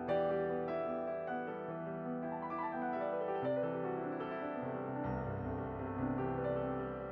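Background piano music: a gentle keyboard piece, its notes changing every few seconds over a lower bass part.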